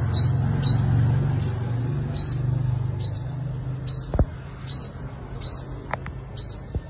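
Sunbird calling over and over: a short, high, upward-sweeping note about once every second, over a low steady hum.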